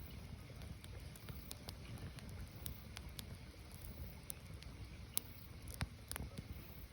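Firewood burning, with scattered sharp pops and crackles at irregular intervals over a low, steady rumble of the fire.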